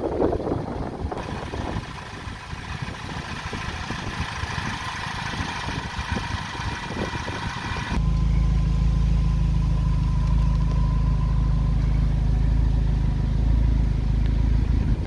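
2015 Morgan Plus 4's four-cylinder engine idling, fainter and uneven at first. About eight seconds in it becomes a much louder, steady low drone, heard close at the open cockpit.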